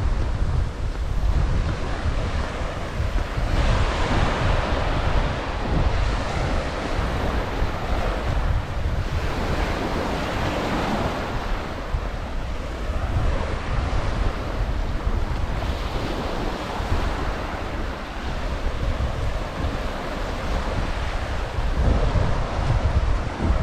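Ocean surf washing onto a sandy beach, swelling and easing every few seconds, with wind buffeting the microphone as a steady low rumble.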